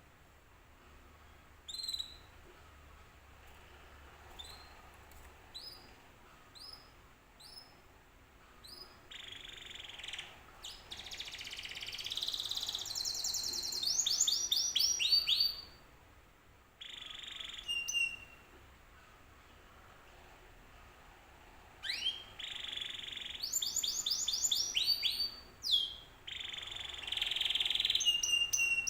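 Domestic canary singing: a few short, separate rising chirps at first, then from about nine seconds in fast, loud trilled and rolling phrases, a short break, and more trills near the end.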